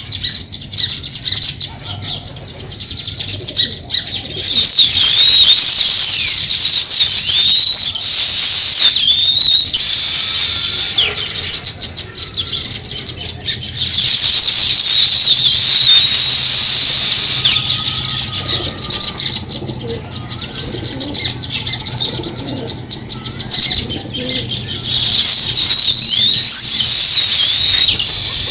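House sparrows chirping in a dense, continuous chorus of rapid high chirps, swelling louder in several stretches.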